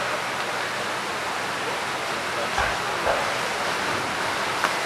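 Steady noisy hiss of the outdoor background during a fireworks display, with two muffled low thumps from fireworks about half a second apart, a little past the middle.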